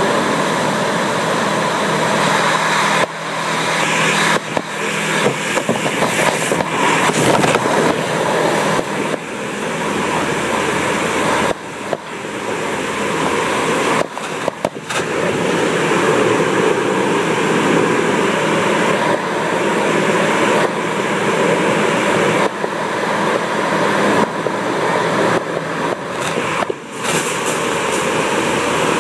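Automatic car wash running at close range: a loud, steady rushing noise from its high-pressure jets, with several brief dips.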